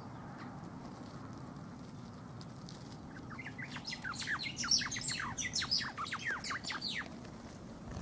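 A songbird singing a quick run of short, downward-sweeping chirps for about four seconds, starting about three seconds in, over steady low background noise.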